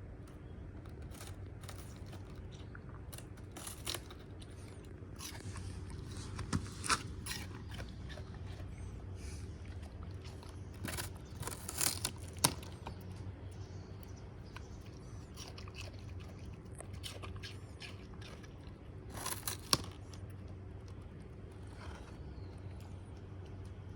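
Shiba Inu crunching and chewing crisp Chinese cabbage leaves: irregular crackling bites that come in three louder bursts with quieter chewing between.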